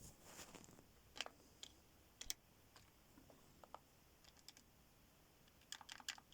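Faint, irregular clicking of a computer keyboard, a few scattered clicks and then a quick run of clicks near the end.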